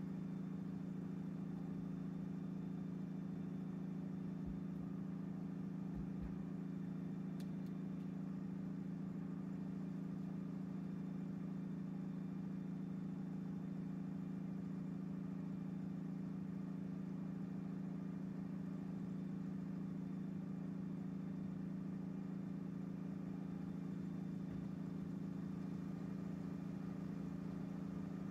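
1954 Pontiac's engine idling steadily, a smooth, even low hum.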